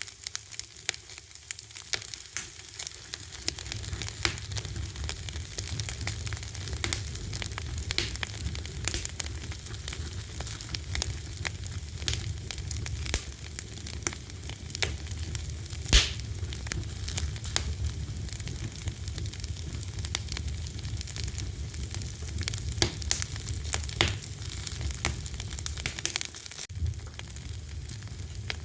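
Wood fire crackling, with irregular pops and snaps and one sharp loud pop about halfway through. A low rumble runs under the crackle, coming in after a few seconds and dropping out shortly before the end.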